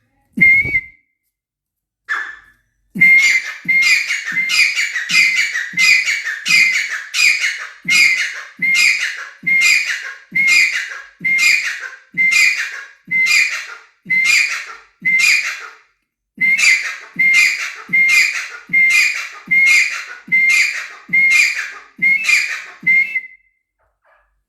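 A bird calling loudly over and over with short whistled notes, about one and a half a second, for some twenty seconds with one brief pause.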